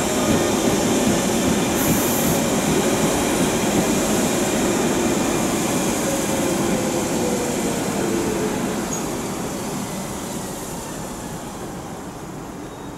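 London Underground 1992 tube stock trains running: steady wheel-on-rail rumble with a faint whine falling slowly in pitch, the whole sound fading over the last few seconds.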